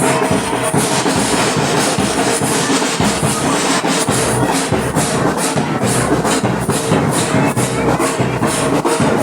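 Batucada samba percussion ensemble playing a dense, steady drum rhythm.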